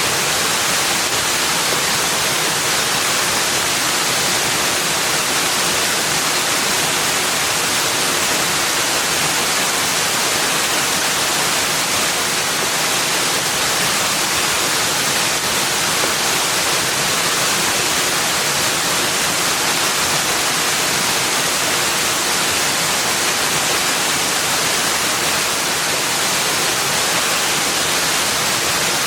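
Rushing water, a steady, unbroken hiss with no individual splashes or other events.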